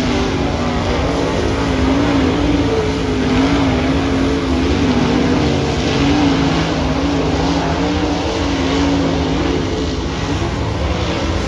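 Race car engines running laps on a dirt oval, several engines heard together. Their pitch keeps rising and falling as the cars go around.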